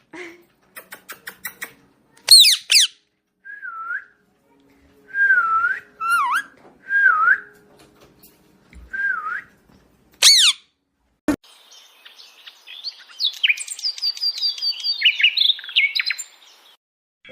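Pet parrot calling: two short, shrill falling screeches, several brief wavering whistled notes between them, then a fast run of chirps and twittering over the last five seconds.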